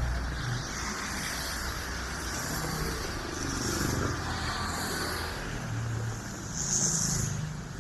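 Road traffic on a wet street: car engines running with a low rumble, and tyres hissing as vehicles pass, loudest near the end.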